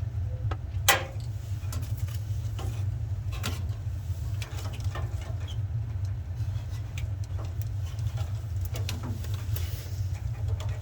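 Light clicks and taps of plastic and metal as a furnace control board and its wires are handled, with one sharper click about a second in, over a steady low hum.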